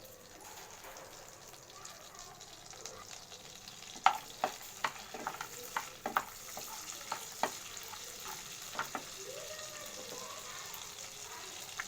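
Whole spices frying in melted butter in a kadai, with a steady gentle sizzle. A spoon stirring them taps and scrapes against the pan in a quick run of sharp clicks from about four to nine seconds in.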